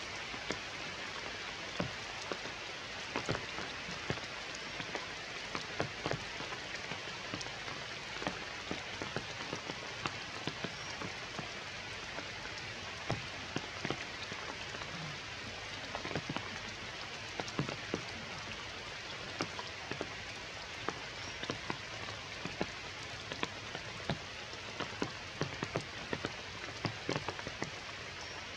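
Steady rain falling, with many sharp raindrop taps close by.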